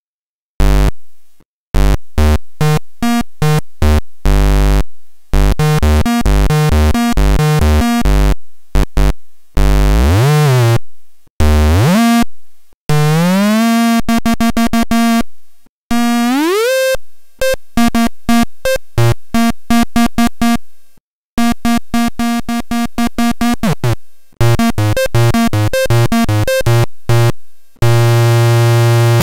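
Homemade CMOS 4093 NAND-gate square-wave synthesizer making harsh, buzzy electronic tones that stutter on and off in rapid pulses and jump between pitches, with rising pitch sweeps and a sustained buzz near the end.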